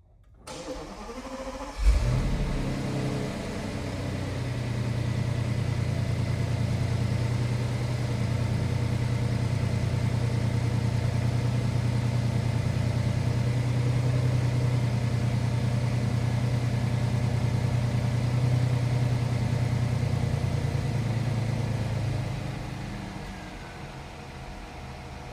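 2012 Audi A8's W12 engine on a cold start: the starter cranks for about a second and a half, the engine catches with a loud flare, then runs at a steady fast idle. Near the end the idle drops lower and quieter.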